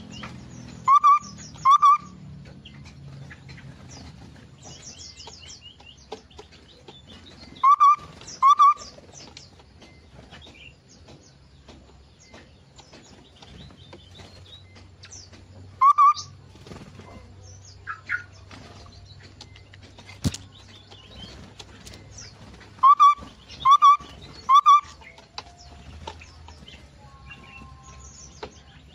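Small birds in a mixed aviary: a loud, short call repeated in twos, and once three times in a row, every several seconds, over a constant background of faint high chirps and twitters. A single sharp click sounds about twenty seconds in.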